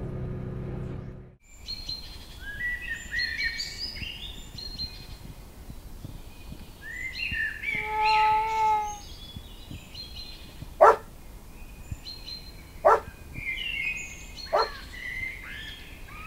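Songbirds chirping and singing, with a longer whistled note about halfway through and three short sharp sounds a couple of seconds apart in the second half. It opens with the steady hum of a vehicle's interior, which cuts off about a second in.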